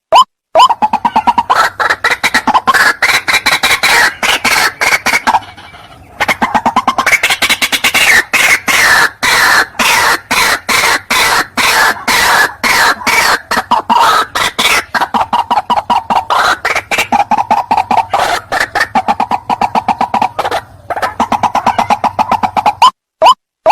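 White-breasted waterhen calls played back as a trapping lure: a long, fast run of loud repeated harsh notes, broken by brief pauses about 6 s in and again near the end, with single rising calls at about three a second before and after the run.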